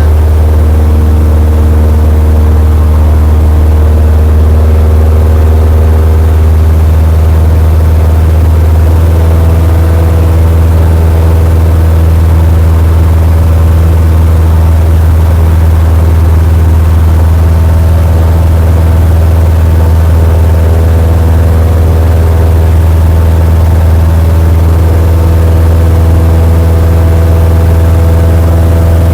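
Cessna 172's four-cylinder piston engine and propeller running steadily at low power after start-up, a loud constant drone with small shifts in engine speed.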